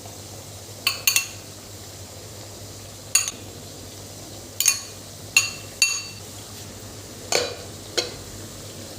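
A metal spoon clinking against a metal cooking pan while stirring: about nine sharp, ringing clinks at irregular intervals, over a low steady hum.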